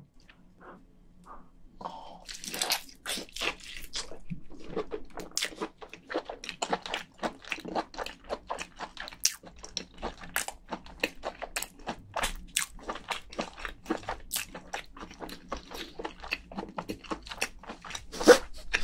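Mouth chewing and biting cooked giant crayfish meat: a dense run of wet, sharp mouth clicks and smacks that starts about two seconds in, with one louder click near the end.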